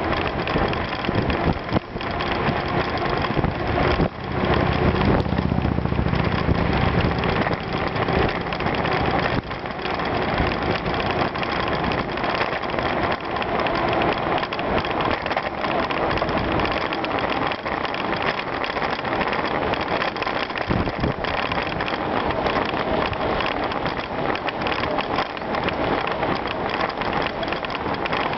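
Bicycle tyres rolling over a gravel trail: a steady rushing crackle of loose stones under the wheels, with a low rumble for a few seconds near the start.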